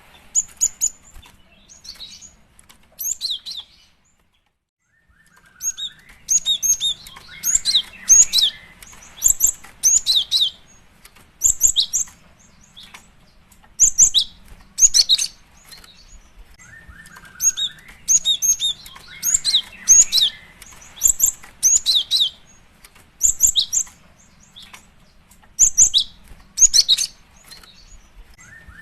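Female cinereous tit (gelatik batu) calling: clusters of rapid, high-pitched chirps, the call a female uses to draw in a male. The calls break off for about a second and a half near the four-second mark, then the same run of calls repeats about every twelve seconds, like a looped recording.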